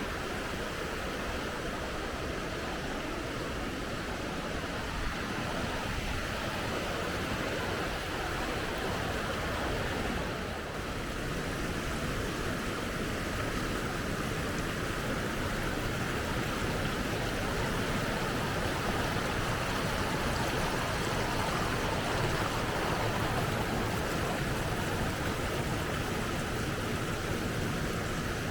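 River water rushing steadily, an even unbroken wash of sound.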